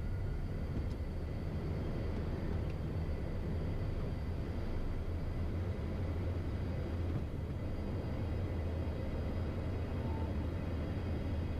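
Cockpit noise of a Beechcraft Premier I business jet under power: a steady low hum from its engines mixed with an even rush of noise.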